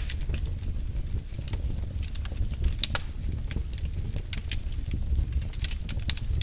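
Wood fire in a fireplace crackling, with scattered sharp pops over a low, steady rumble of the flames.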